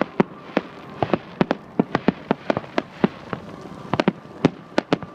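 Fireworks display going off: an irregular, rapid run of sharp bangs and pops, about four a second, with no pause.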